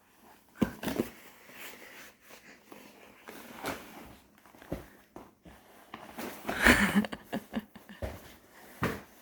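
A toddler wiping with a wet wipe: irregular rubbing and rustling with scattered soft knocks, and a louder stretch of rubbing noise about seven seconds in.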